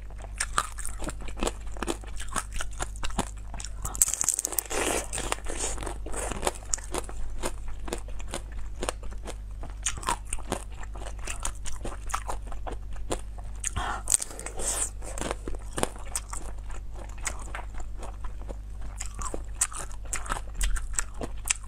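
Close-up biting and chewing of pink pomelo pulp: many irregular wet crunches and crackling clicks throughout.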